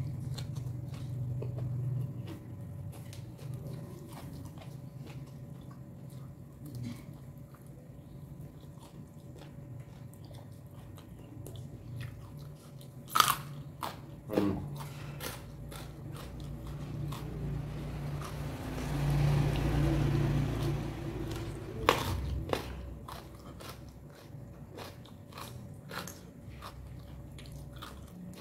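A person chewing and crunching raw food with the mouth, with many small crunches. There are sharp, louder bites about halfway through and again a little past two-thirds of the way.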